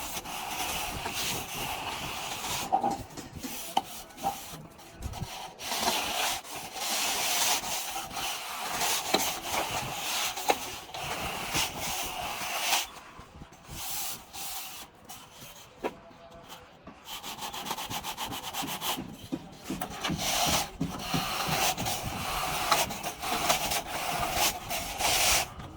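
A hand tool rubbing and scraping over a plastered wall in repeated strokes, eased off for several seconds about halfway through.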